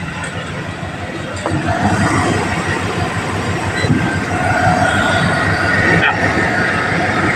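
GMC Savana van's engine running, a steady low drone with a thin whine above it, getting louder about a second and a half in.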